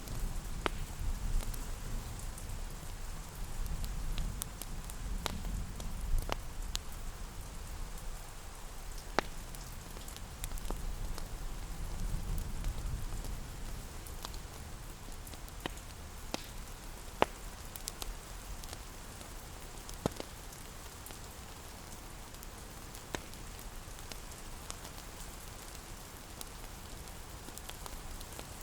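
Steady rain hissing against a window, with a wood fire crackling: scattered sharp pops every second or two. A low rumble swells and fades a few times in the first half.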